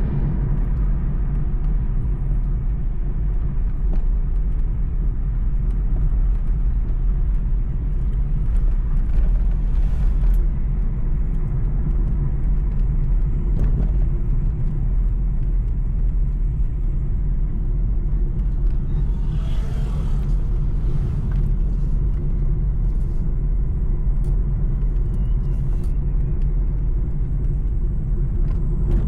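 Steady low rumble of a moving road vehicle, with a few faint ticks and a brief hiss about twenty seconds in.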